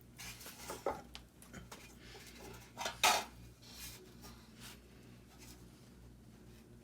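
Pleated furnace filter being handled: rustling with light clacks and knocks, the loudest clack about three seconds in, then a few smaller ticks.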